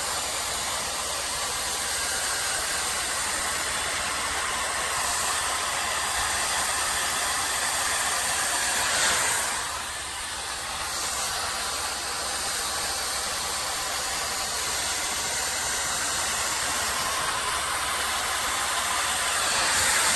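webeauty 5-in-1 hot air brush running with its large round brush head, blowing a steady hiss of air. It swells briefly and then dips about halfway through.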